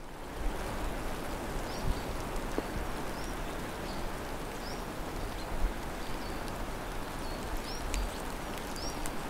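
Steady outdoor background hiss, with a bird repeatedly giving a short, high, hooked chirp about once a second.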